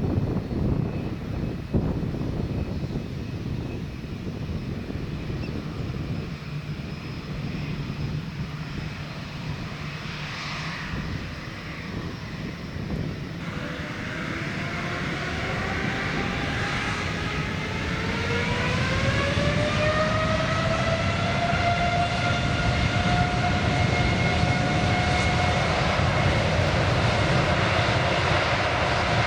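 Boeing 787 jet engines spooling up for takeoff: a low rumble, then from about halfway in a rising whine that climbs and settles into a steady, louder full-thrust tone.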